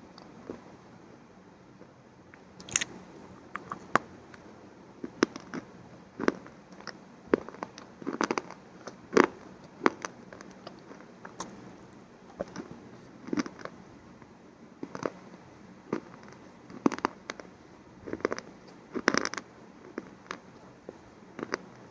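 Crunchy food being bitten and chewed close to the microphone: irregular sharp crunches, roughly one a second, with a few quick clusters of crackling.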